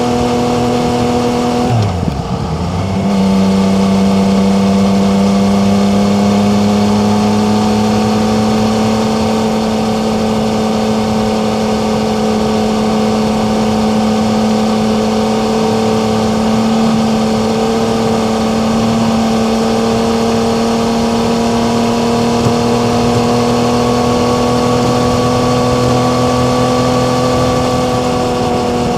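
Yamaha MT-09's three-cylinder engine pulling under load while riding. About two seconds in, the note drops sharply as it shifts up a gear. It then holds a steady, slightly lower note that creeps up slowly toward the end, with wind rush underneath.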